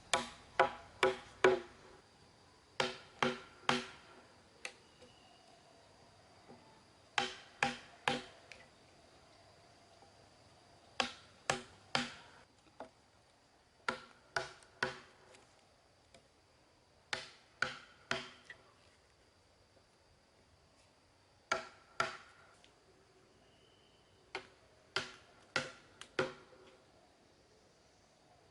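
A tool striking wood in quick bursts of three to five blows, a pause of a few seconds between bursts, each blow ringing briefly.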